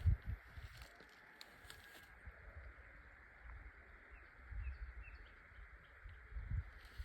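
Outdoor ambience: a steady faint hiss with a few short bird chirps about four seconds in. Low muffled thumps come at the start, around four and a half seconds and again near the end.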